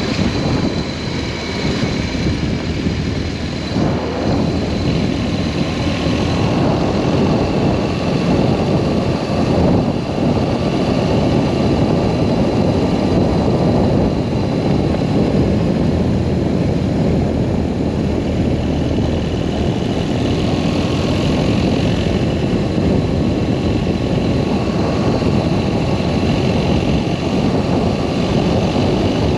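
BMW R1200S boxer-twin motorcycle engine running steadily while riding, mixed with a steady rush of wind noise.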